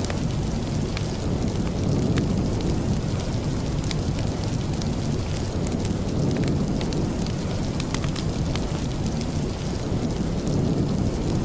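Steady heavy rain with a deep, even rumble underneath and many scattered sharp ticks of drops.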